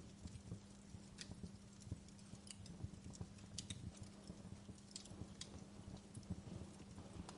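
Wood fire crackling: irregular sharp pops every half second to a second over a continuous bed of soft low crackle, with a faint steady low hum underneath.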